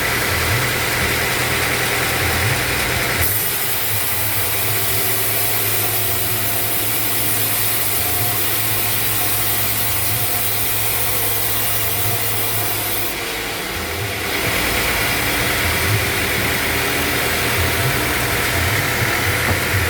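Band sawmill machinery running steadily. The sound changes about three seconds in, with more hiss in the highs, and changes back at about thirteen to fourteen seconds.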